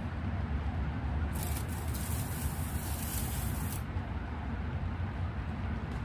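Steady rain and outdoor background rumble, with a brighter hiss rising over it from about one to four seconds in.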